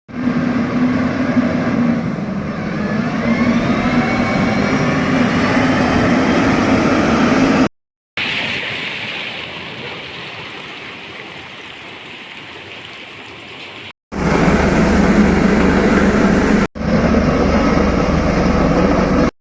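Heavy road-construction machinery engines running, heard in several short clips separated by abrupt cuts. The first clip has a steady engine drone with rising whines. The middle clip fades down. The last clips carry a loud, pulsing low rumble.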